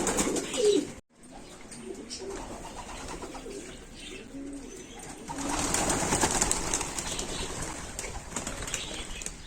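Homing pigeons cooing in their loft, short low coos repeated throughout, with a louder rustling noise from about five seconds in.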